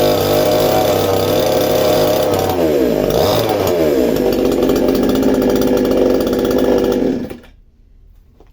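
Chainsaw engine running at high speed. Its speed dips and comes back up about three seconds in, then the sound cuts off suddenly near the end.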